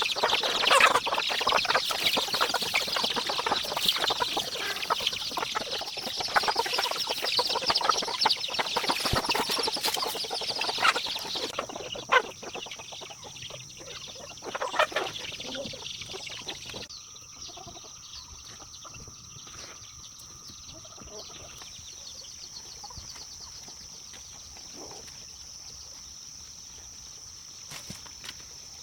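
A flock of chickens clucking and calling busily, dying away about eleven seconds in. A steady, high-pitched insect drone carries on behind it.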